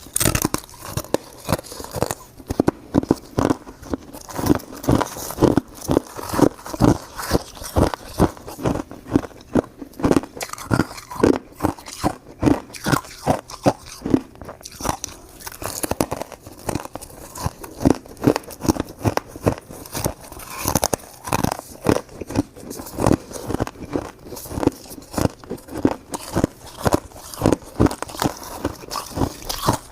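Close-miked crunching of frozen purple shaved ice being bitten and chewed, a steady run of sharp crunches, two or three a second.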